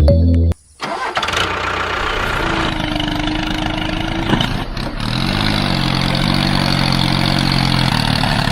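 Background music cuts off about half a second in; after a brief pause an engine starts and runs steadily, its low hum shifting in pitch about halfway through.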